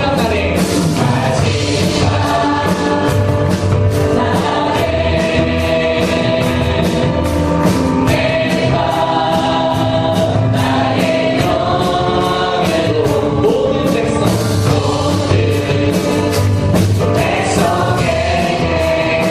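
Choir and congregation singing a Korean praise song over a band with a steady beat.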